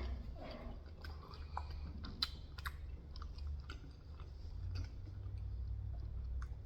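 Close-miked chewing of leftover pizza, with scattered sharp wet mouth clicks over a steady low hum.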